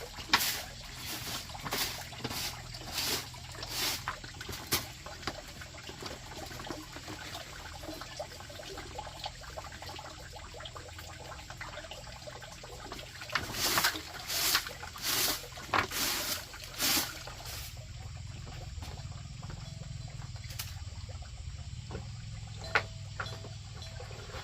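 Water splashing and sloshing in repeated strokes about one a second, twice in bursts of a few seconds, with steady trickling between them.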